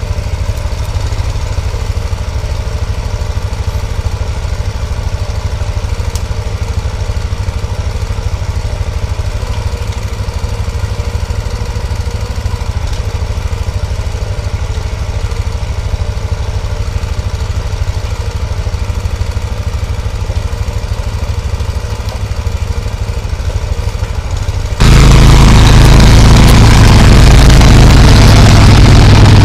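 A small engine running steadily at a low, even pitch; about 25 seconds in it cuts abruptly to a much louder engine running harder.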